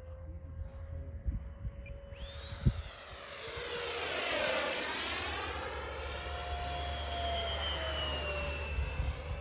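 Electric radio-control model airplane flying past with a high motor whine that swells to its loudest about halfway through, then falls to a lower pitch as it moves away. A single sharp knock sounds about a quarter of the way in.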